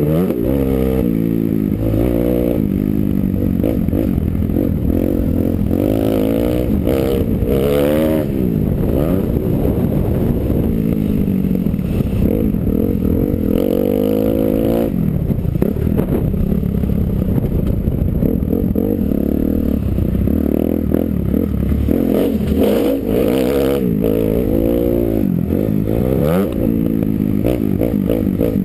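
Motocross dirt bike engine revving up and down over and over as it is ridden, its pitch climbing and dropping every few seconds, heard from the rider's helmet.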